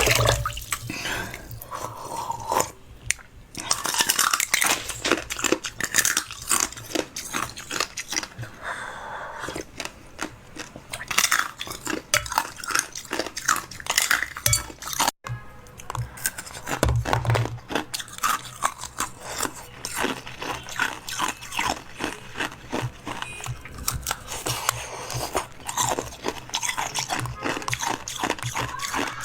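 Crunchy chewing close to the microphone, a person eating crisp food with many irregular crackles and bites.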